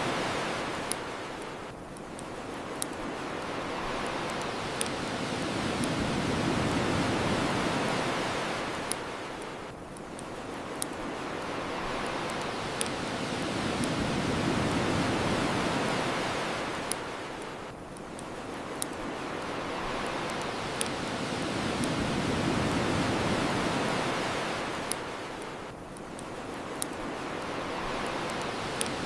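Ocean waves washing onto the shore, a broad rush that swells and fades about every eight seconds, with the sharp pops and crackles of a bonfire scattered through it.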